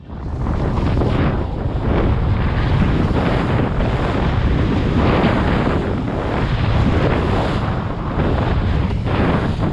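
Strong wind buffeting the microphone over the rush of sea water around a sailboat.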